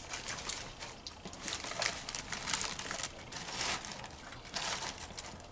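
Irregular crinkling and rustling in short bursts, like takeout wrapping or a container being handled.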